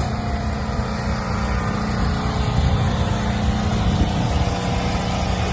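Car engine running steadily with a low exhaust note that grows a little louder about two seconds in.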